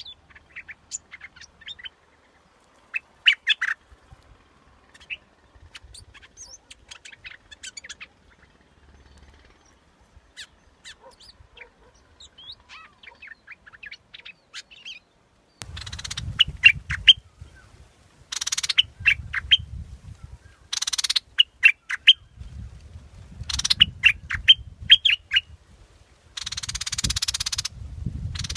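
Bulbul song used as a decoy call: short, quick chirped and whistled phrases, scattered and fainter at first, then louder repeated phrases from about halfway through over a low rumble and hiss.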